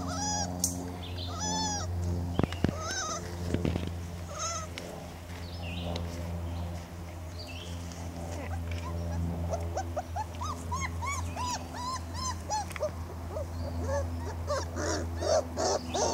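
Four-week-old Weimaraner puppies crying: short, high-pitched cries that rise and fall, a few at first, then coming quickly one after another in the last third, over a steady low hum.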